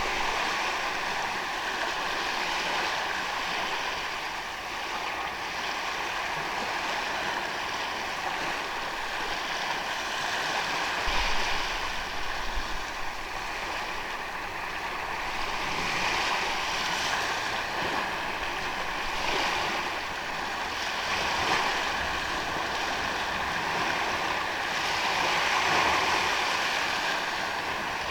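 Sea waves washing onto a beach: a continuous hiss of surf that swells louder every few seconds as waves break, with a few low rumbles about eleven seconds in.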